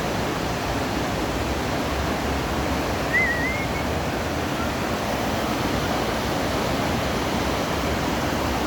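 River in flood, running high and fast with a steady rush of water. A brief high warbling chirp sounds about three seconds in.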